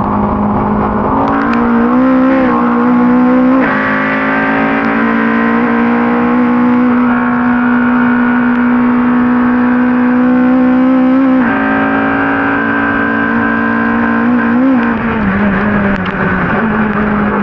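Ford Cortina race car engine running hard at high revs, its pitch climbing slowly, with a sudden drop in pitch about eleven seconds in.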